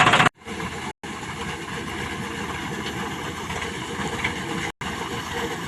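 Tractor engine running steadily. The sound cuts out abruptly about a third of a second in, with two brief silent gaps, and drops out once more for an instant near the end.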